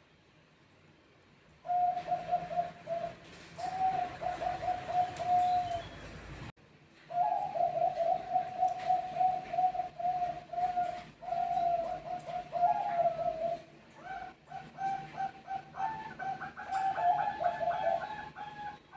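Zebra doves (Bangkok perkutut) cooing in quick strings of short notes, starting about two seconds in. The sound breaks off sharply around a third of the way through, then resumes. Near the end a second, higher-pitched dove answers over the first.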